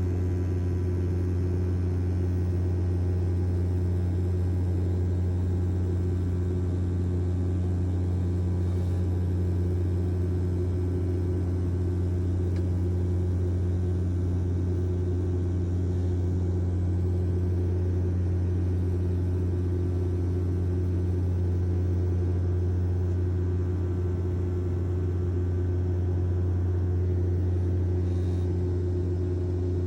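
Steady, unbroken drone of an airliner's engines heard from inside the cabin during flight, a low hum with a few even tones above it.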